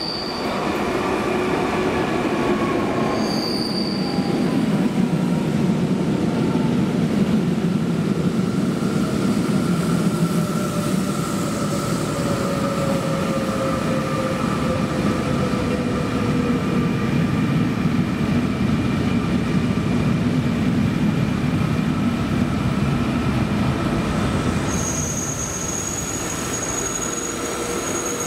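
Fertagus double-deck electric multiple unit pulling into the platform and slowing: a steady rumble of wheels on rail with whining tones that slowly fall in pitch. A high, thin squeal comes in near the end as it comes to a stop.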